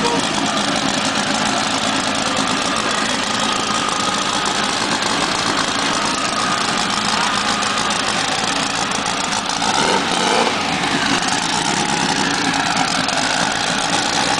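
Turbocharged VW Beetle engine idling steadily, with a brief swell about ten seconds in.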